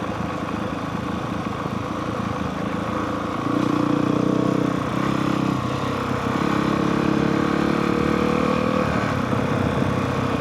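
Honda CRF450R's single-cylinder four-stroke engine running under way. It gets louder about three and a half seconds in, and its note climbs slowly until about nine seconds in.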